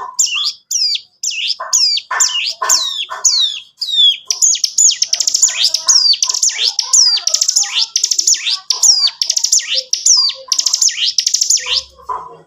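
Ciblek gunung (a prinia) singing loud and continuously: high notes that sweep sharply downward, spaced apart at first, then from about four seconds in a fast unbroken run of notes, the long 'ngebren' song prized in kept birds.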